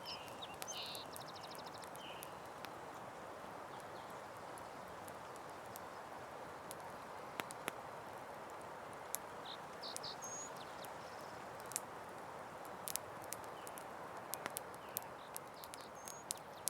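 Campfire crackling: irregular sharp pops and snaps over a steady hiss. A few short, high bird chirps come near the start and again around the middle.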